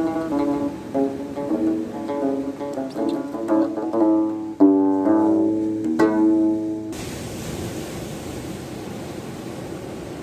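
A plucked string instrument playing a melody of quick, changing notes, which cuts off suddenly about seven seconds in. A steady rushing noise follows, slowly fading.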